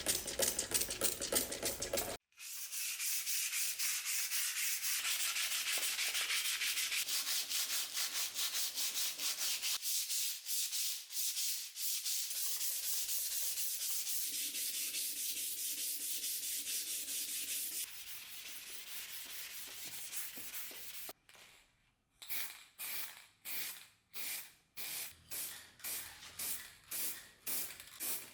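Sanding by hand: abrasive rubbed back and forth in quick scraping strokes, in several short sections that cut off abruptly. Near the end the strokes come slower and separate, about two a second.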